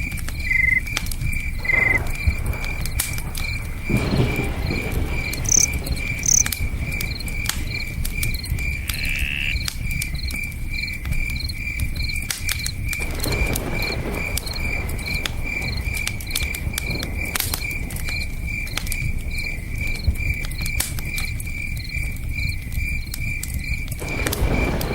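Crickets chirping steadily at about two to three chirps a second, over campfire crackles and pops and the low steady rush of a river. A few short higher calls come in the first seconds.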